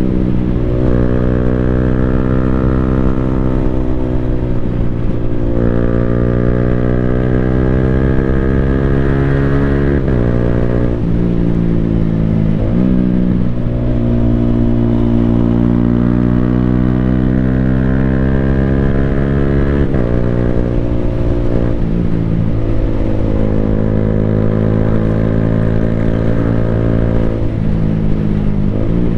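Yamaha Sniper 155R single-cylinder four-stroke running loud through an Akrapovic full-system exhaust, its pitch climbing steadily under acceleration and dropping sharply at several quick-shifter gear changes.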